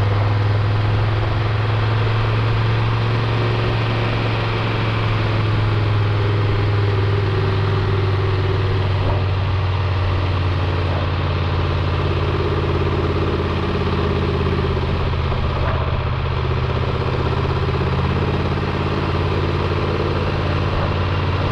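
Triumph Tiger 1200 Rally Explorer's three-cylinder engine running steadily at a constant pitch, with a strong low hum.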